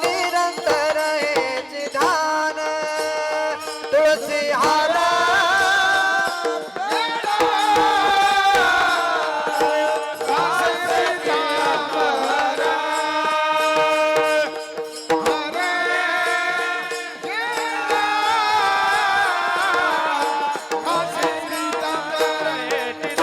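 Marathi devotional bhajan: a man's voice sings long, drawn-out melodic phrases with gliding pitch over a steady held drone, with tabla playing.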